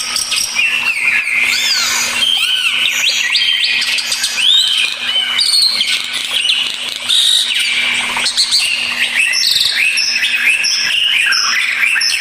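Jalak starlings (jalak uren, the Asian pied starling, and jalak putih, the black-winged starling) singing: a dense, unbroken stream of whistles, swooping up-and-down glides and quick chattering notes, over a faint steady low hum.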